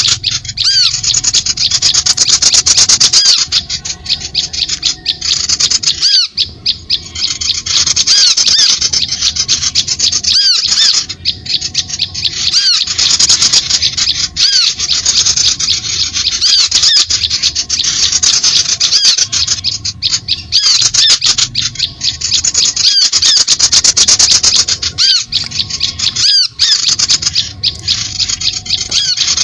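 Bird-lure recording of many birds calling at once: a loud, dense stream of rapid, harsh chattering and squawking calls mixed with short chirps, broken by brief pauses every few seconds.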